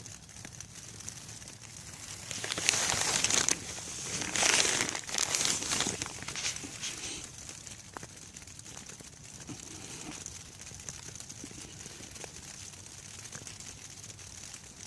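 Plastic packaging crinkling as it is handled, in two loud bursts about two and four to six seconds in, over the steady hiss of rain.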